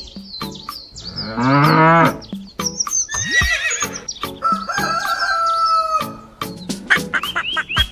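Sound effects of farm animals: a long cow moo about a second in, then other animal calls, with short bird chirps and a regular clicking beat throughout.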